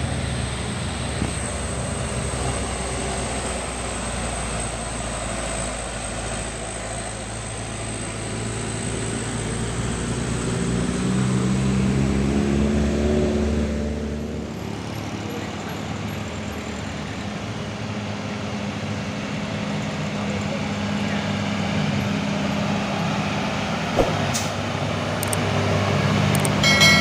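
Diesel engines of heavy trucks working hard up a steep hill. The engine note rises and gets louder, then drops off sharply about halfway through, and there is a short sharp knock near the end.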